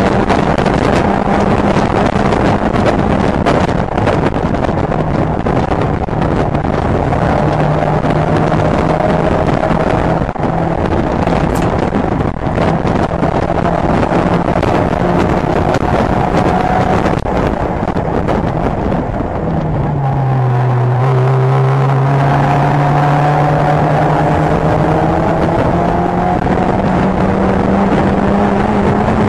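Mazda MX-5 race car's four-cylinder engine running hard at racing speed, heard from inside the open cockpit with wind rushing. About two-thirds through the revs fall sharply, then climb steadily again as the car accelerates.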